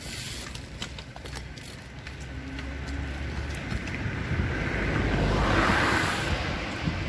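A car passing by, its tyre and engine noise swelling to a peak about six seconds in and then fading, over a low steady rumble of wind on the microphone.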